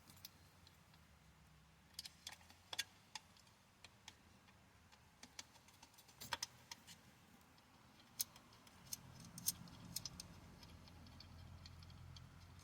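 Scattered light metallic clicks and clinks of hand tools and chain parts being handled, a few at a time with pauses between. A faint low rumble of a passing vehicle comes up in the last few seconds.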